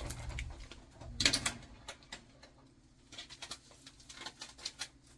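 Hands handling a packet of washing machine cleaner: a cluster of clicks and a knock about a second in, then lighter scattered ticks and rustles.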